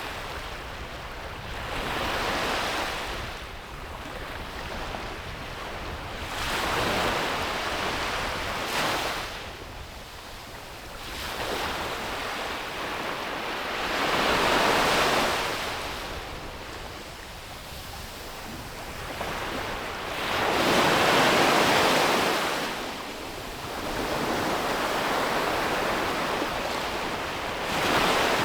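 Ocean waves breaking and washing up a beach, each surge swelling and fading every few seconds, the largest about halfway through and again near the end of the second third. A little wind buffets the microphone.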